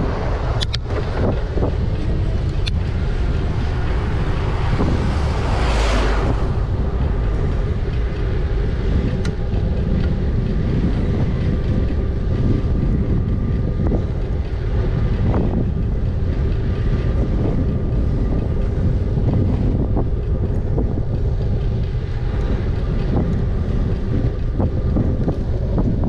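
Wind buffeting the microphone on a moving e-bike, over a steady low rumble of road noise, with a few light clicks. A louder rush swells and fades about six seconds in.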